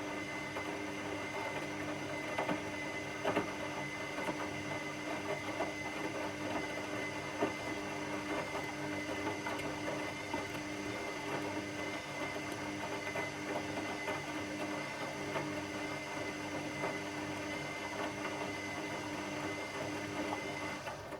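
Washing machine running: a steady motor hum with a held whine and a few light ticks, cutting off abruptly at the very end.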